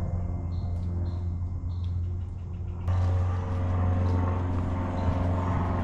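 Steady low drone of a propeller aircraft engine flying over, a constant pitched hum with overtones that steps up in level about three seconds in.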